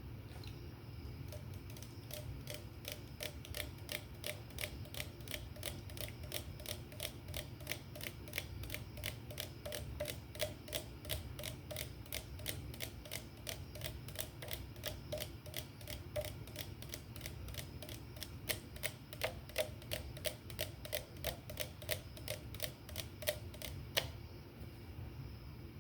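Steady rhythmic tapping on an aluminium beer can, about three or four taps a second with a short ring to each, growing somewhat louder in the later part and ending with one sharper tap.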